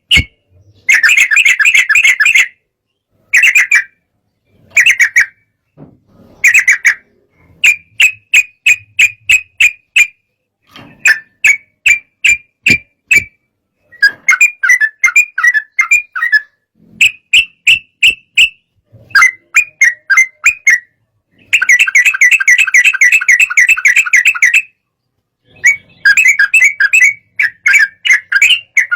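Yellow-vented bulbul (trucukan) calling in agitated phrases of rapid, sharp, chattering notes, each phrase about one to three seconds long with short silences between them.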